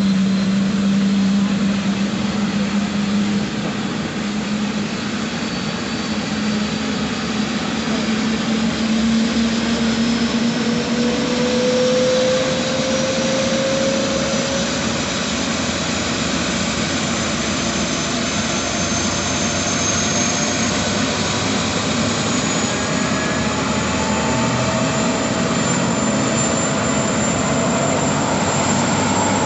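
Police helicopter's turbine engine and rotor running steadily during takeoff, with a high whine over a dense rushing noise. A low steady tone fades over the first dozen seconds while thinner tones slowly rise in pitch.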